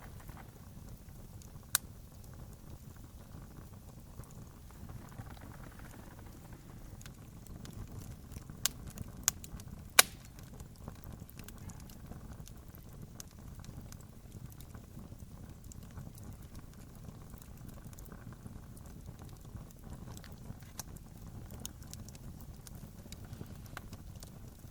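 Campfire crackling steadily with many small clicks over a low, even rumble, and a handful of sharp pops, the loudest about ten seconds in.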